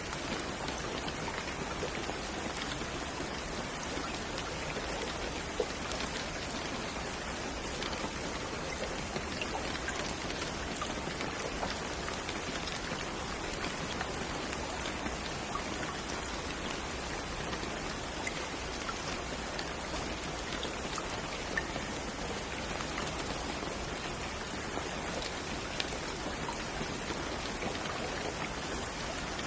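Steady rain falling, with dense, even hiss and scattered individual drops ticking on a surface; a few slightly louder drop taps stand out now and then.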